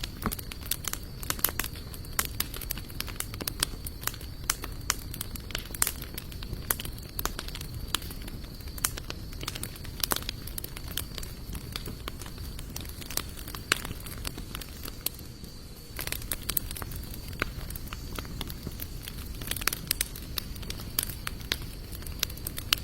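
Wood fire of sawtooth oak and mixed hardwood logs burning, with frequent irregular sharp crackles and pops over a steady low noise of the flames. A thin, steady high tone runs underneath.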